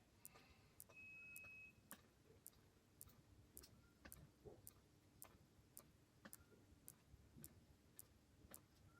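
Faint, even ticking, about two ticks a second, with one short high beep about a second in.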